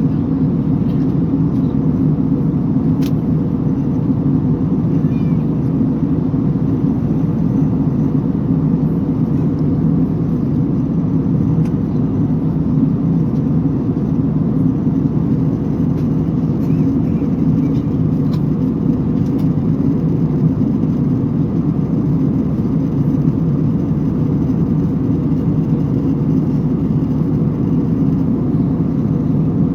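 Airliner cabin noise: a steady, unbroken low hum of engine and airflow, with a faint click about three seconds in.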